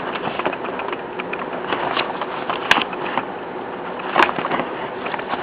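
Paper pages of a softcover booklet being turned and handled: a steady rustle, with a few sharp paper crackles about two, three and four seconds in.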